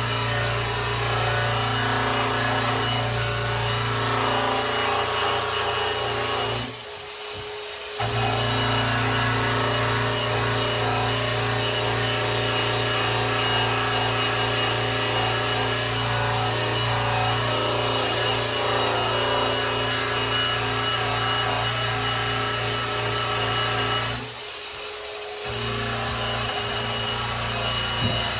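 Electric polisher running steadily as it buffs a grand piano's finish, a low motor hum under the rubbing of the pad. Twice the low hum drops away for about a second, about seven seconds in and again near the end.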